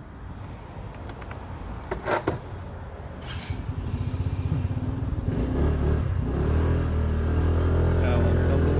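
Motorcycle engine running and growing louder, its note rising near the end as it speeds up. There are a few short clicks or knocks about two seconds in.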